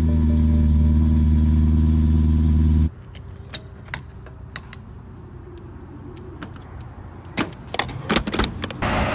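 Car engine running with a steady low hum that cuts off abruptly about three seconds in. Then it is much quieter, with scattered light clicks and taps, and a cluster of sharper knocks near the end.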